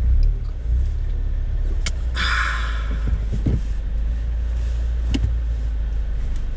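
A car idling, heard from inside the cabin as a steady low rumble. A brief hiss comes about two seconds in, with a few faint clicks.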